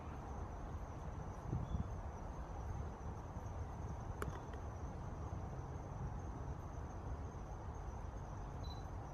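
Outdoor ambience: a low wind rumble on the microphone under a faint, steady high whine, with one small click about four seconds in.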